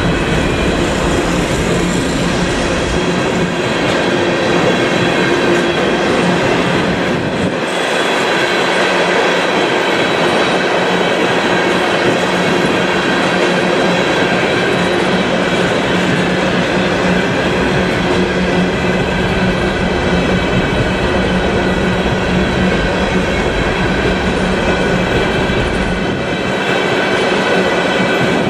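A train rolling along the rails: a steady, loud running noise of wheels on track, with a few faint steady tones running through it.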